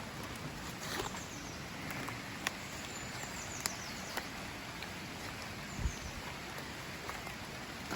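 Steady hiss of heavy rain and running water, with a few light clicks and a dull thump about six seconds in.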